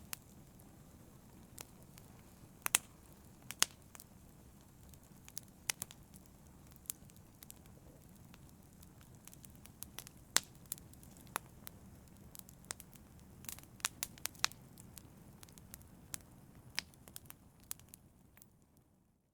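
Wood fire crackling in a fireplace: irregular sharp pops and snaps over a low steady rumble of the flames, fading out near the end.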